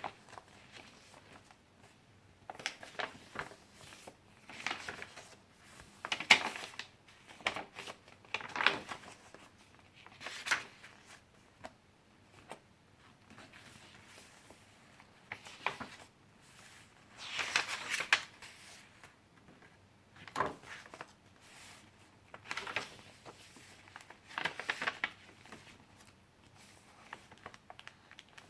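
Pages of a handmade paper junk journal being turned and handled: about ten irregular rustling swishes of paper, with quiet stretches between them.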